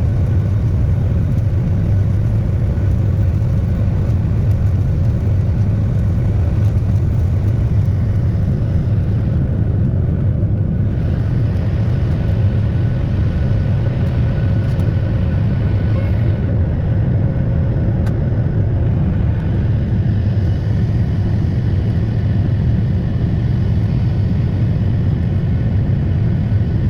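Jet airliner cabin noise: the engines and airflow as a loud, steady low rumble, with faint steady engine tones above it, heard from a seat over the wing.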